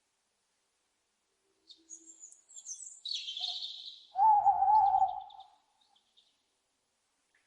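Owl calls. A flurry of high, harsh screeching calls comes about two seconds in, then one loud, wavering hoot lasting about a second, followed by a few faint high chirps.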